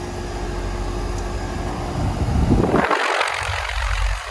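York central air-conditioner condensing unit running: a steady mechanical hum from the compressor and condenser fan, giving way about three seconds in to a louder rush of air.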